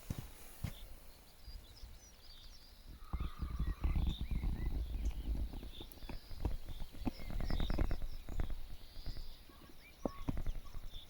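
Small birds chirping, over irregular low thumps and rustling that are loudest about 3 to 5 seconds in and again around 7 to 8 seconds in.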